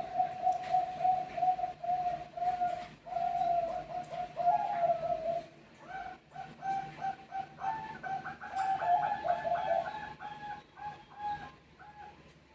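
Bangkok-type perkutut zebra doves cooing: long runs of quick staccato coo notes, with a second, higher run joining in over the first about halfway through, one bird answering another.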